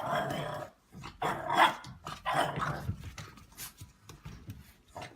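A dog vocalizing: three loud calls about a second apart, then quieter sounds.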